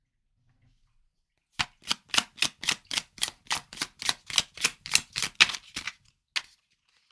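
Tarot cards being shuffled by hand: a quick, even run of crisp slaps, about four a second, starting a little over a second in and stopping after about four seconds, with one last slap near the end.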